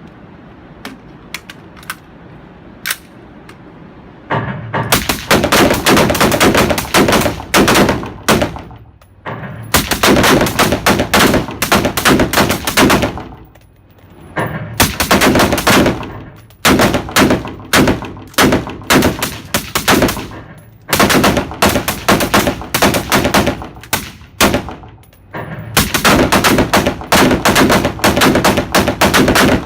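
Rapid gunfire at a shooting range from several guns firing at once. A few single shots come first, then dense, overlapping strings of shots start about four seconds in, broken by a few short lulls.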